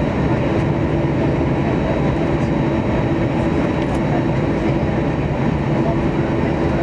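Steady jet airliner cabin noise: a constant rumble with a low, even hum from the engines, heard from inside the cabin.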